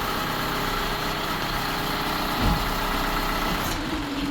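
An engine idling steadily. Near the end the high hiss drops away and a steady hum comes in.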